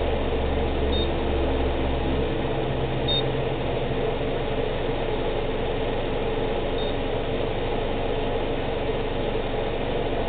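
Subaru Outback's engine idling steadily, fully warmed after more than fifteen minutes of idling to bring the CVT fluid up to checking temperature. A few faint, short high beeps sound now and then over it.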